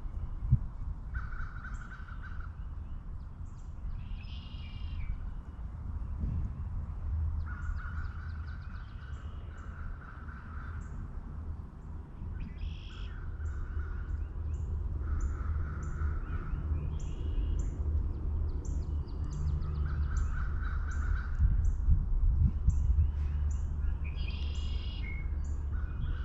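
American crows cawing in short runs every few seconds, with a small songbird giving brief high chirps between them, over a steady low rumble.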